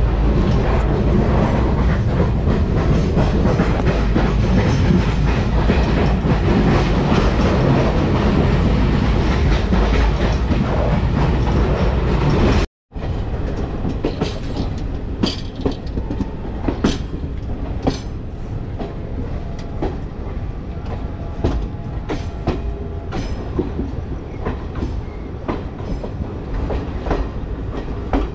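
LHB coaches of an express train running, heard at an open coach doorway: a loud, dense rumble for the first half. After a cut about halfway through, the running is quieter, with many sharp clicks of the wheels over rail joints and points.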